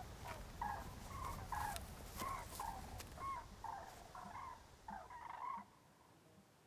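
A flock of birds calling: many short, overlapping calls repeated irregularly, stopping a little over five seconds in.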